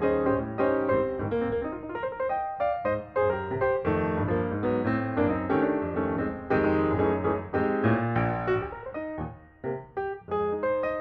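Background piano music, a stream of notes with no puzzle-piece sounds standing out.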